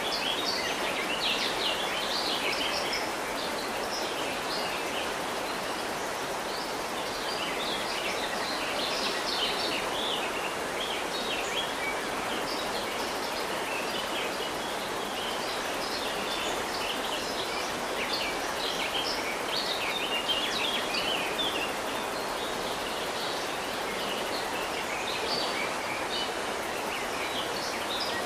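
Steady rush of flowing river water, with many short, high bird chirps and calls over it.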